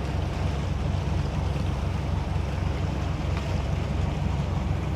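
A 38-foot motor yacht under way: the engine's steady low drone with wind and rushing water over it.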